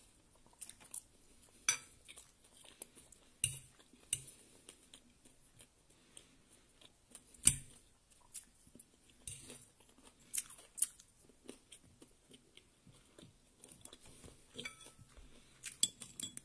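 Close-up eating sounds: chewing and crunching of fried rice and fried fish, with scattered sharp clicks and knocks of a spoon against a ceramic bowl, the loudest knock about seven and a half seconds in.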